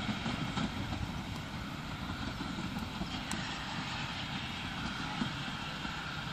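Steam-hauled passenger train running away into the distance: a steady rumble of the train.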